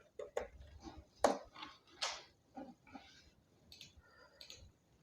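Faint, irregular clicks and taps of a computer keyboard and mouse, about a dozen scattered strokes.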